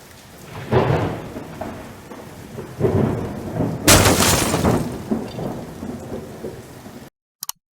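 Thunderstorm: rolls of thunder over steady rain, with the loudest, sharpest crack about four seconds in. The sound cuts off abruptly about seven seconds in.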